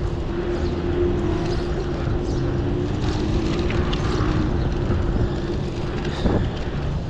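Steady riding noise from a moving vehicle: low rumble with a steady hum, and a brief sharp knock near the end.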